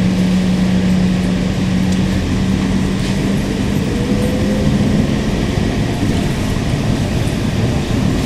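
Ride inside a 2008 Nova Bus LFS diesel-electric hybrid city bus: the running bus gives a broad rumble with a steady hum that fades out about five and a half seconds in, and a faint rising whine around the middle.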